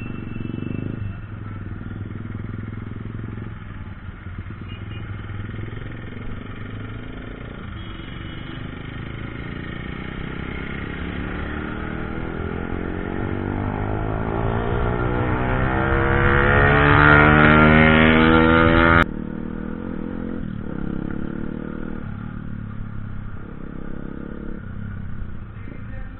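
Motorcycle engine running on the move. About halfway through it climbs steadily in pitch and loudness as it accelerates, then cuts off suddenly and settles back to a steady run.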